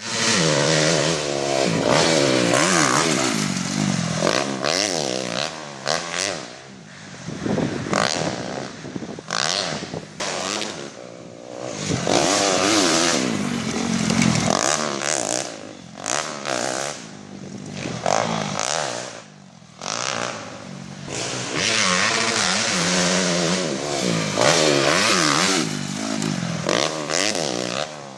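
Motocross dirt bike engine revving up and falling back over and over as it is ridden, with rattling and scraping noise over it; the level drops briefly several times as the throttle closes.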